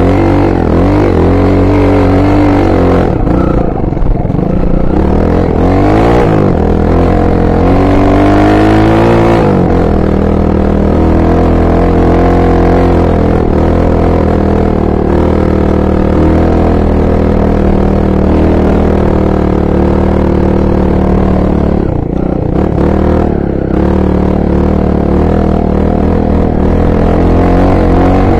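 Honda XR250 Tornado trail bike's single-cylinder four-stroke engine running under way. Its pitch rises several times in the first ten seconds, each rise cut off by a drop, then it runs at a steady speed.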